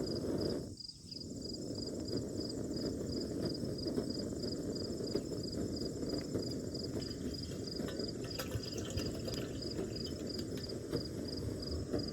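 An insect chirping steadily at a high pitch, about three chirps a second, over a steady low rushing noise.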